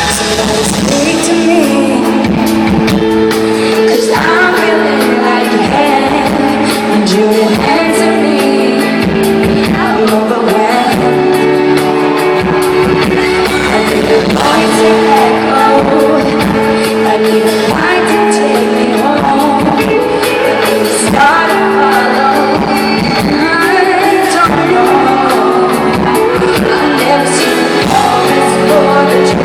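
Live concert audio of a female pop singer singing a ballad with band accompaniment, amplified through an arena sound system and recorded from the audience.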